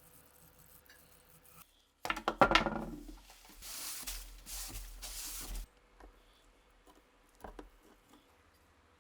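Small metal parts clinking together with a brief metallic ring about two seconds in. Then a couple of seconds of hissing noise in two or three bursts, and a single click near the end.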